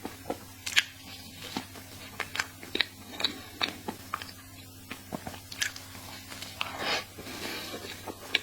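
Close-miked chewing of a chocolate crepe cake: irregular short mouth clicks and smacks, with a longer noisy rustle about seven seconds in.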